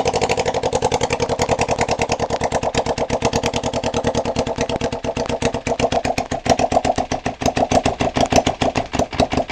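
Kawasaki Ninja 250's 248 cc parallel-twin engine idling with no exhaust pipes fitted: a harsh, rapid stream of open-port exhaust pulses, like a really mean lawnmower, run on partial choke. About six seconds in the beat turns a little rougher and uneven.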